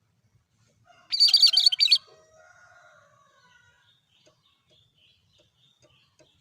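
Cucak kerinci calling: a loud, rapid run of notes about a second in that lasts about a second, followed by faint, softer chirps.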